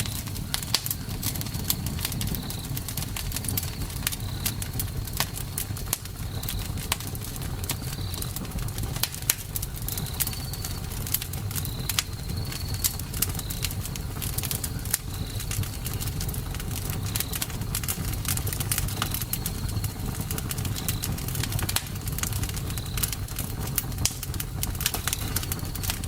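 Wood fire crackling, with dense sharp pops over a steady low rumble. Short, high chirps from a bird or insect repeat every second or two.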